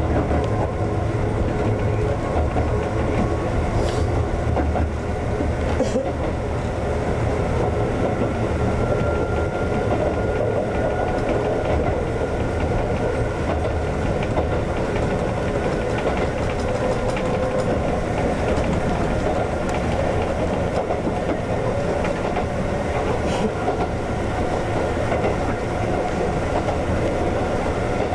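Ex-Tokyu 7000 series electric train running along the line, heard from inside the cab: a steady rumble of wheels on rail with a faint whine that rises slightly. A few wheel clicks over rail joints come at scattered moments.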